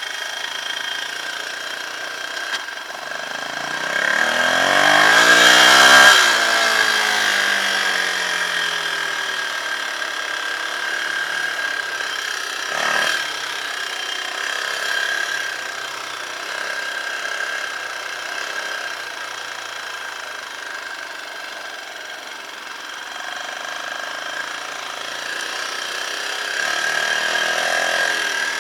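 Dirt bike engines running. A second bike passes close by about six seconds in, its pitch rising as it approaches and dropping as it moves away. There is a single sharp knock around halfway through.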